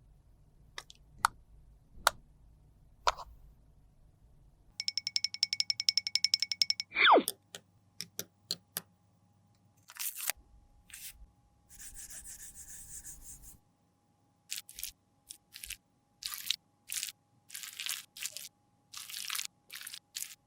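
Close-miked sounds of makeup being worked by hand: scattered clicks and taps, then a fast run of ticks ending in a loud falling sweep about seven seconds in. A short hiss follows, then a string of brief strokes.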